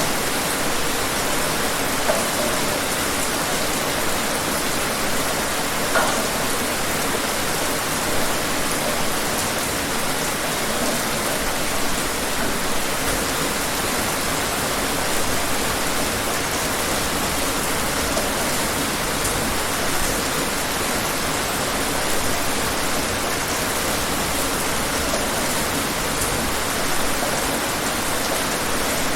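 Steady rain falling on a surface, an even hiss with occasional individual drops ticking out, about 2 and 6 seconds in.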